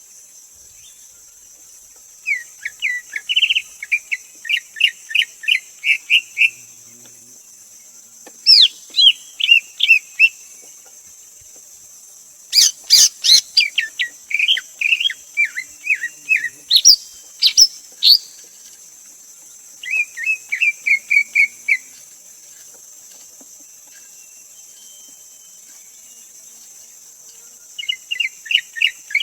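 Greater green leafbird singing: five phrases of quick, sharp whistled notes, several notes a second, with pauses of a few seconds between phrases, over a steady high-pitched hiss.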